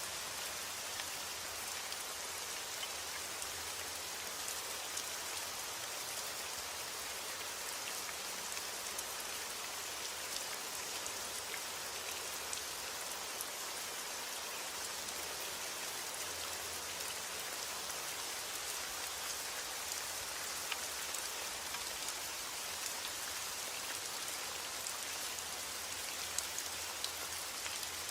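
Steady rain falling, an even hiss with scattered sharp drop hits standing out.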